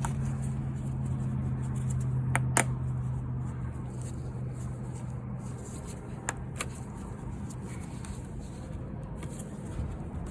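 A few sharp plastic clicks as a tight container cap is worked at with one hand and won't come off, over a steady low hum that fades out about six seconds in.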